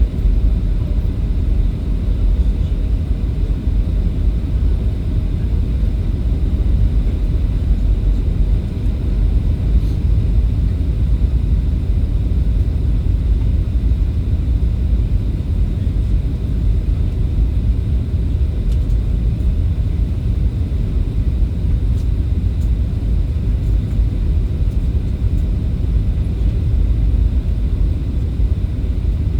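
Steady low rumble of a jet airliner heard from inside the passenger cabin: engine and airflow noise, even throughout with no distinct thumps.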